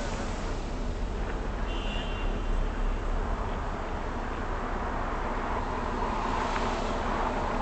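Road traffic noise, with a vehicle's sound growing louder about six seconds in.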